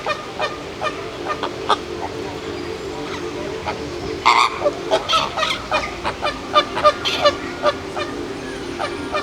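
Birds calling, with many short honking calls in quick succession, loudest about four seconds in, over a steady low hum.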